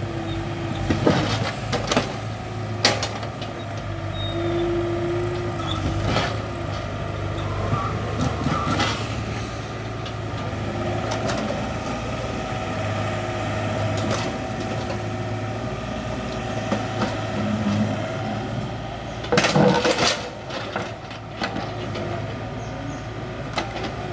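Excavator engine running steadily under work, with scattered sharp knocks and clanks and a louder burst of them about twenty seconds in.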